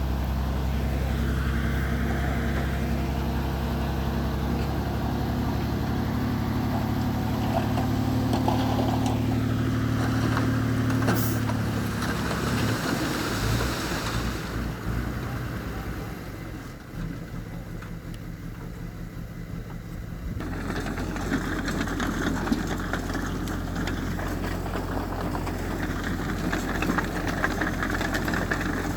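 Heavy earthmoving machine's diesel engine running steadily. About halfway through its pitch and level drop and it goes quieter for several seconds, then steady engine sound picks up again.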